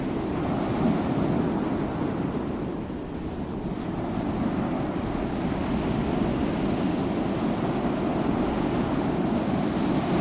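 Sea waves washing in, a steady surf noise that ebbs a little about three seconds in and then swells again.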